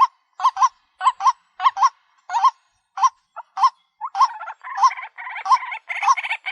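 White-breasted waterhen calling: a short, hooked note repeated about twice a second, often in quick pairs. From about four seconds in, a denser run of overlapping notes joins underneath.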